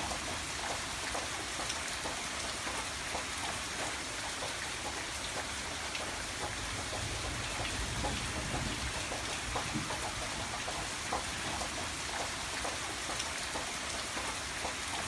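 Steady rain falling, a dense even hiss with scattered close drips and a low rumble underneath.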